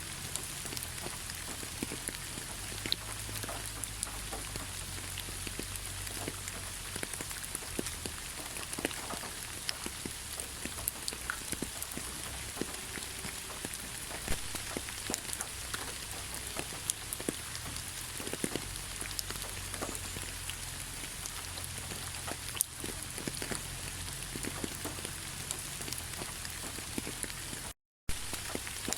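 Heavy rain falling steadily: a dense, even hiss scattered with many individual drop impacts. The sound cuts out to silence for a split second near the end.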